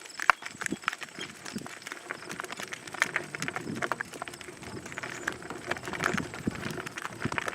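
Miniature horse's hooves clip-clopping as it pulls a cart, an irregular run of sharp knocks; the loudest comes a moment in.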